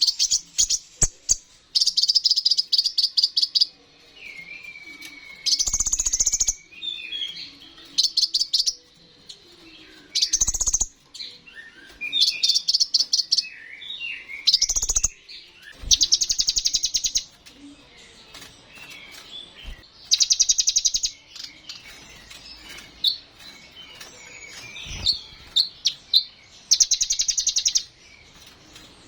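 Sunbird (kolibri ninja) singing: loud, very fast high trills of about a second each, about nine of them, with softer twittering, sliding chirps between.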